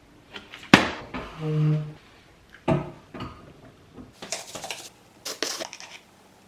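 Someone eating crunchy Reese's Puffs cereal: a sharp click, a short hummed "mmm" a little over a second in, then scattered clicks and two short bursts of crunching.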